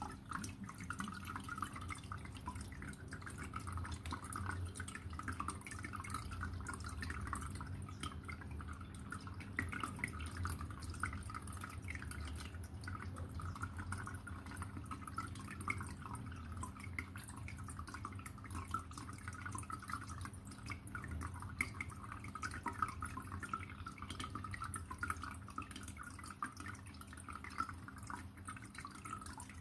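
Aquarium water trickling and dripping steadily, a constant patter of small splashes over a low, steady hum.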